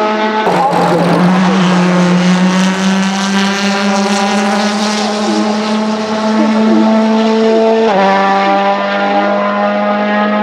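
Ford Fiesta WRC Plus rally car's 1.6-litre turbocharged four-cylinder engine pulling hard, its pitch climbing slowly through a long gear. About half a second in there is a rough burst of noise, and near the end comes a quick upshift, after which the engine climbs again.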